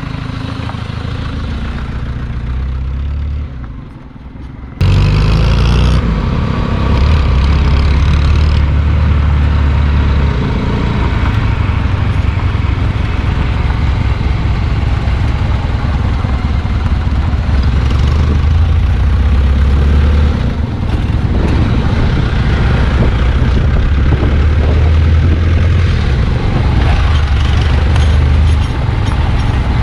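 Hindustan Contessa's non-turbo diesel engine running steadily. It fades briefly about four seconds in, then comes back suddenly louder and stays loud.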